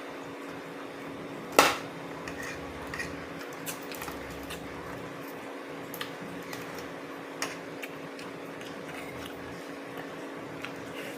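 Scattered clinks of a spoon and dishes during a meal, one sharper clink about a second and a half in, over a steady low hum.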